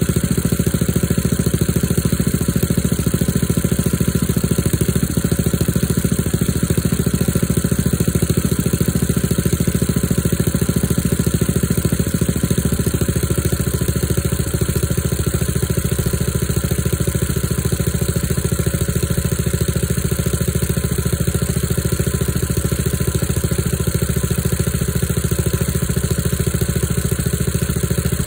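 Vehicle engine idling steadily while it warms up after a cold start in about 23 °F weather.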